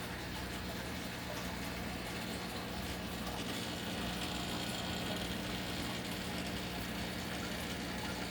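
Steady hum of a small pump with running water, like an enclosure or tank filter.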